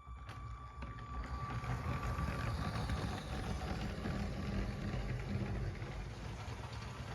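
LEGO train locomotive running on LEGO track: electric motors whirring and wheels rolling and clattering on the plastic rails, a steady low rumble that starts abruptly. A faint steady whine sits over it for the first few seconds.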